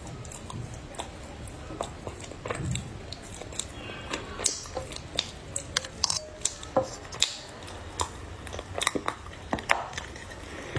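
Dry clay chunks crunching and cracking as a person bites and chews them close to the microphone, in irregular sharp snaps that come more often from about four seconds in.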